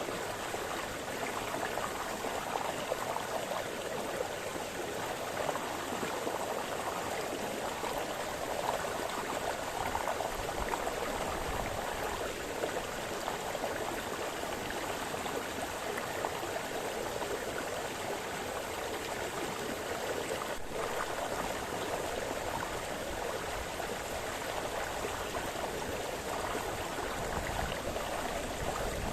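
A brook splashing and flowing over stones, a steady babble of running water with no change throughout.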